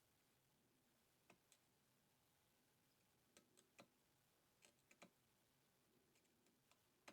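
Near silence broken by a dozen or so faint, short clicks at irregular intervals, with the most of them between about three and five seconds in.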